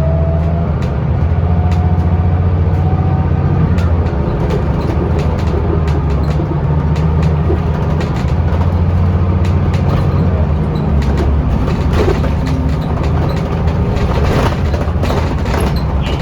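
Scania L94UB city bus with ZF automatic gearbox under way, heard from inside: a steady low diesel drone with a faint whine rising in pitch in the first few seconds. Short rattles and knocks come more often in the last few seconds.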